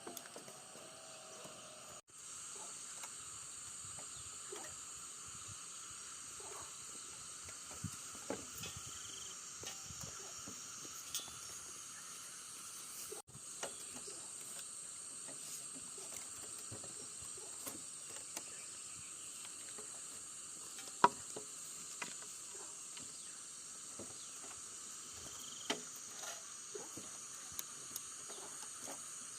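A steady high hiss, with scattered light knocks and taps and one sharp click about two-thirds of the way through.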